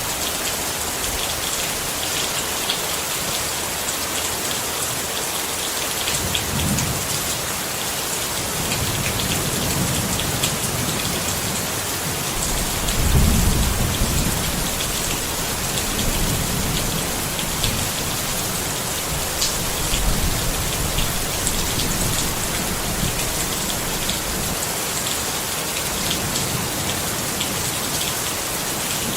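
Steady rain pattering on a tent, with low rolls of thunder rising and fading several times, the loudest about halfway through.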